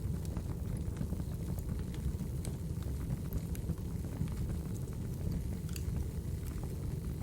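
Wood logs burning in a fireplace: a steady low rumble of the flames with scattered sharp crackles and pops.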